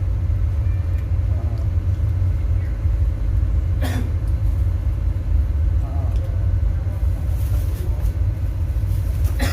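A loud, steady deep rumble, with a sharp knock about four seconds in and another near the end.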